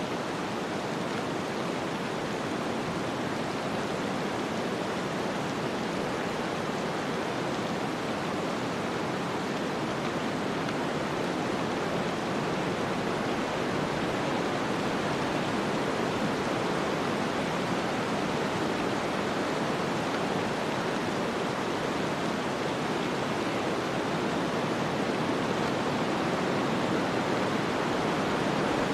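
Steady wind noise of a snowstorm, an even rushing hiss without gusts or clicks, slowly growing a little louder.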